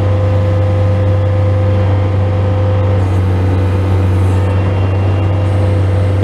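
Bobcat S185 skid steer loader's diesel engine running steadily, a constant low drone with a fainter steady whine above it.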